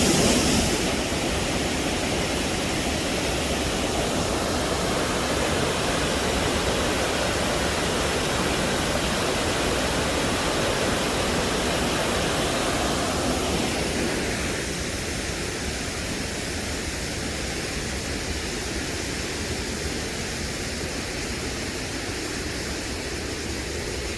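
Steady rushing of a waterfall and river water. About fourteen seconds in it becomes a little quieter and duller.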